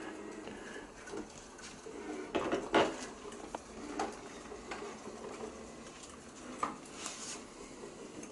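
ILIFE V5s robot vacuum driving around with a faint steady hum, broken by several light knocks and clatters.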